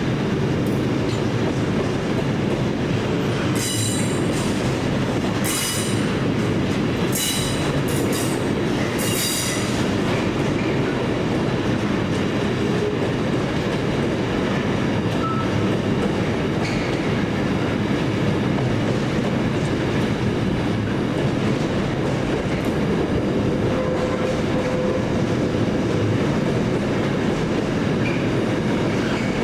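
A train running past with a steady rumble and wheel clatter on the rails. Its wheels squeal in four or five short bursts between about four and nine seconds in.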